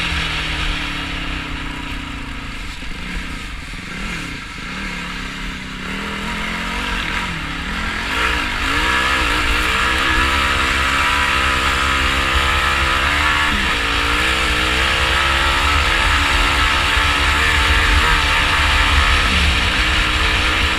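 Quad bike engine, a Yamaha YFZ450R single-cylinder four-stroke, running under a rider: the revs fall and drop back at the start, then pick up again about eight seconds in and hold at a steady, wavering pitch while riding.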